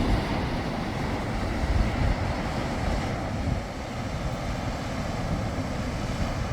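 Wind buffeting the microphone: a steady rushing noise with an uneven low rumble that eases slightly a little past halfway.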